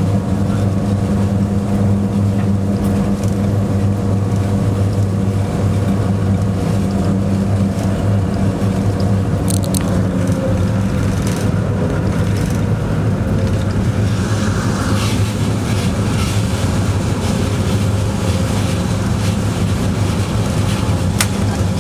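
Locomotive cab noise while the train runs: a steady low hum over a rumble. A couple of sharp clicks come about ten seconds in and near the end.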